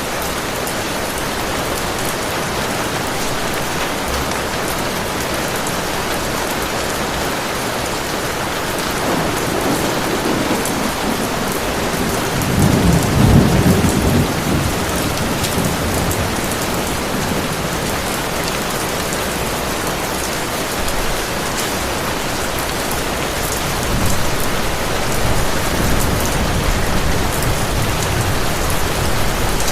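Heavy rain falling steadily. A roll of thunder builds from about nine seconds in and peaks a few seconds later, and a second, weaker rumble comes near the end.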